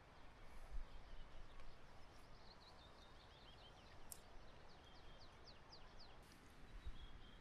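Faint songbird song: a run of many short, quick, falling chirps over a low, steady outdoor hiss.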